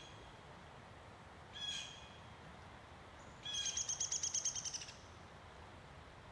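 Bird calling: a short harsh call about two seconds in, then a fast chattering run of about a dozen notes lasting just over a second.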